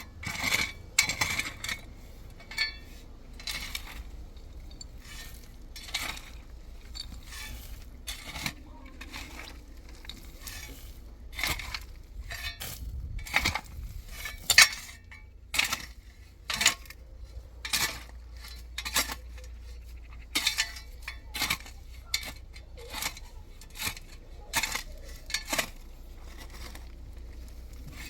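Metal utensils clinking and knocking against pots and dishes: irregular sharp clinks about once a second, some ringing briefly, over a low steady hum.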